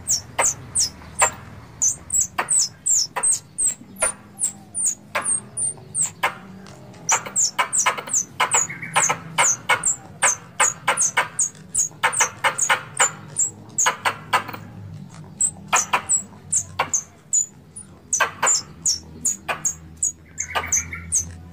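Squirrel calls: a long run of short, sharp, high chips, each sliding down in pitch, several a second, in runs broken by brief pauses.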